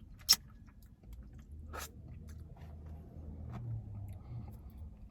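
A person chewing sticky, sauced fried chicken wings close to the microphone, with a few sharp mouth clicks or smacks, the loudest just after the start and another about two seconds in.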